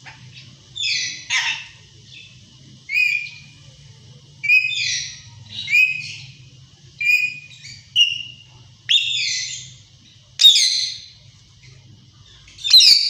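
Pet ringneck parakeet giving a run of short, shrill calls, about ten of them, each a second or so apart.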